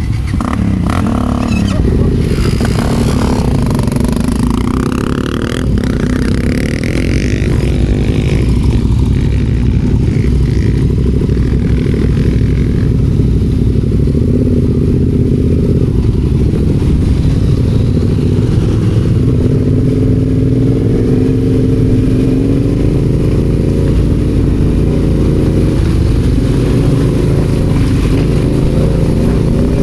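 Adventure motorcycle engine running while being ridden, its pitch rising and falling with the throttle.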